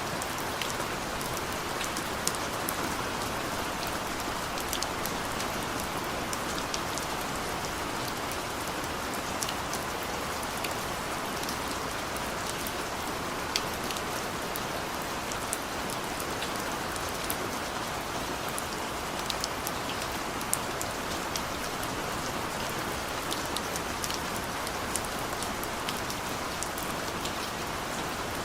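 Steady rainfall: an even hiss of rain with many scattered sharp drips and patters of individual drops.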